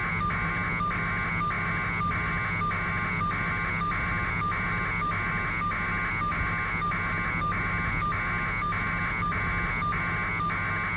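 Helicopter cabin noise: a steady low hum under a high buzzing tone that pulses evenly about two to three times a second.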